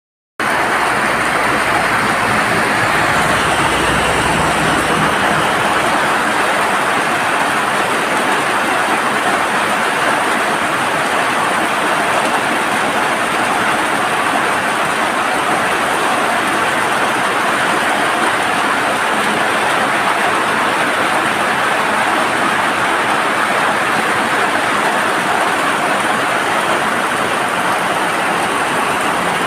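Heavy rain pouring down in a steady, loud hiss, with a low rumble underneath for the first few seconds.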